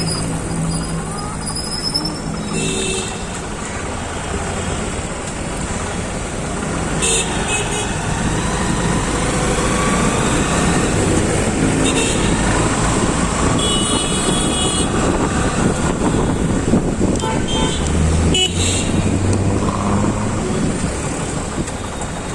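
Steady city road traffic heard from a motorcycle riding through it, with vehicle horns honking about five times. The longest toot, about a second long, comes about two-thirds of the way in.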